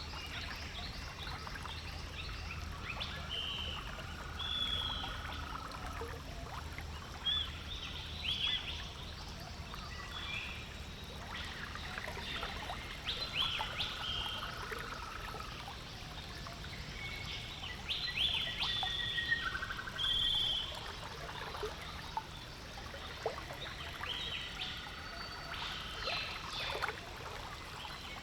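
Several birds calling and singing, with short whistled and chirping notes that overlap and come thick and fast, over a low steady hum.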